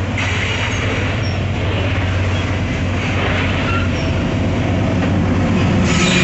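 Freight train rolling past at close range: hopper wagons rumbling on the rails with a few short, high wheel squeaks. The steady low drone of the mid-train diesel-electric locomotives grows louder as they draw level near the end.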